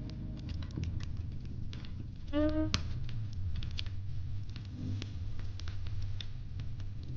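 Wood fire crackling, with many irregular sharp pops and snaps over a low steady rumble. A short pitched tone sounds once about two and a half seconds in.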